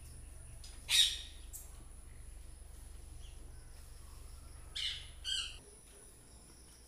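A bird calling: one sharp, loud call about a second in, then two shorter squawking calls near the five-second mark.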